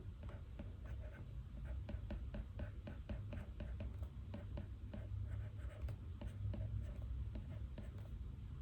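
Pen writing on paper: a quick, uneven run of short scratchy strokes, as in handwriting notes, over a steady low room hum.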